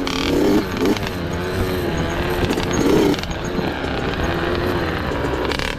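Small off-road motorcycle engine running, its pitch rising and falling as the throttle is opened and closed.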